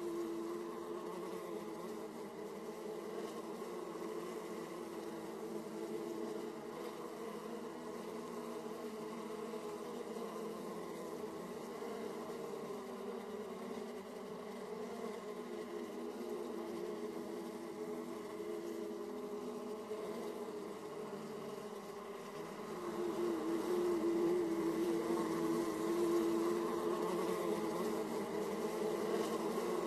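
Many honeybees buzzing at the hive entrance, a steady hum of the colony flying in and out that grows louder about three-quarters of the way through.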